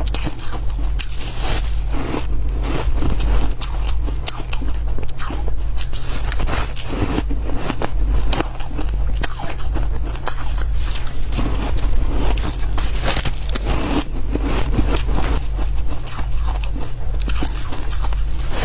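Ice and freezer frost being chewed, a dense run of irregular sharp crunches, with some scraping. A steady low hum runs underneath.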